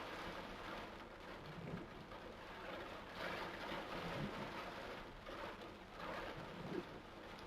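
Torrential rain pouring down: a dense, steady hiss that swells and eases every few seconds.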